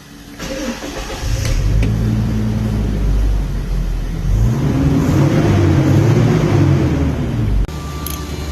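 Toyota Innova car engine starting and running steadily, then revved once, its pitch rising and falling back before the sound cuts off suddenly near the end.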